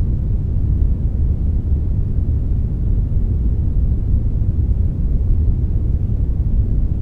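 Steady generated brownish noise, a blend of brown and white noise: a deep, even rumbling hiss weighted heavily toward the low end, with no events or changes.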